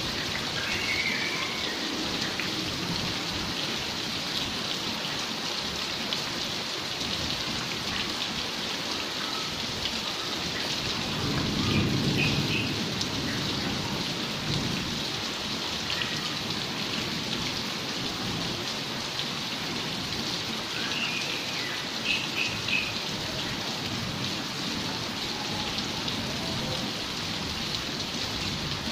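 Heavy rain falling steadily, a constant even hiss of water, heard from indoors through an open glass louvre window. A brief low rumble swells up about twelve seconds in.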